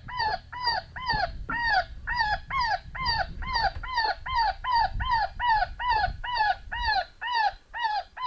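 Cottontail rabbit distress cry played from an electronic predator caller: a quick, steady run of high squealing cries, about three a second, each rising and then falling in pitch.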